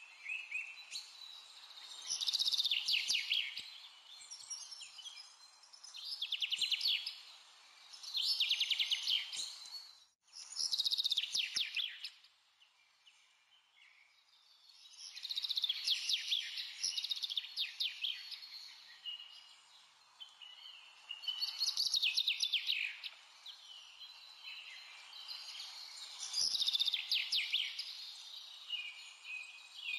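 A small bird chirping in rapid trilled bursts of a second or two, repeated every few seconds over a faint hiss, with a break of a few seconds about a third of the way in.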